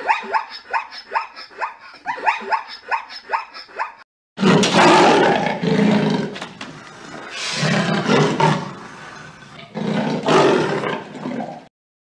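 Zebra's barking call: a fast run of short yelps, about four a second, stopping about four seconds in. Then a big cat growls in three long, loud breaths.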